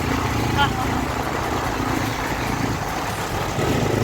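Steady road and wind noise with a low engine hum from a vehicle on the move.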